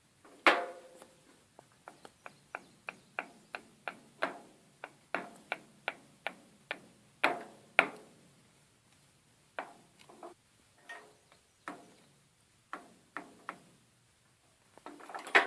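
Hammer tapping metal on a new U-joint in a drive axle shaft, seating the bearing caps for the snap rings: a long series of sharp, ringing taps, quick runs of about three a second broken by pauses, with a few harder strikes.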